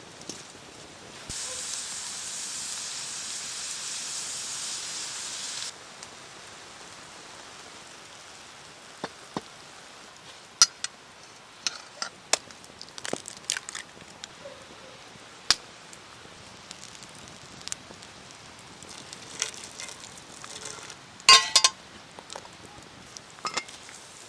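Cooking at a clay pot over a wood fire: a steady sizzling hiss for about four seconds near the start that cuts off abruptly, then scattered sharp clicks and clinks, with a louder clatter and ring near the end.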